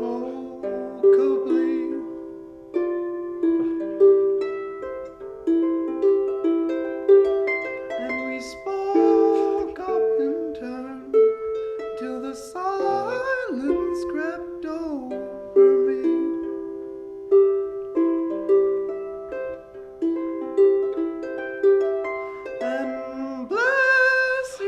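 Live acoustic performance of a plucked string instrument playing a melodic line of single ringing notes that decay one after another. A voice slides up in pitch briefly, about halfway through and again near the end.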